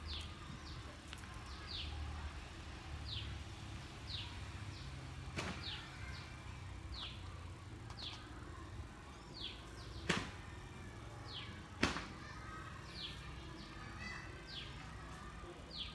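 A bird calling off-screen, repeating a short, high, falling chirp about once a second over a low background rumble. Three sharp clicks stand out, the loudest about ten and twelve seconds in.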